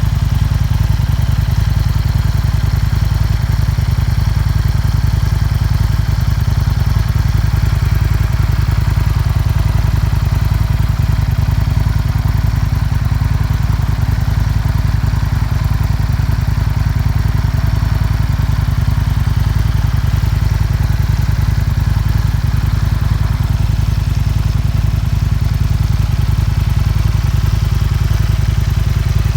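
2004 Aprilia RSV1000R Factory's 60-degree Rotax V-twin idling steadily through an aftermarket Arrow exhaust, with a deep, even note that is never revved.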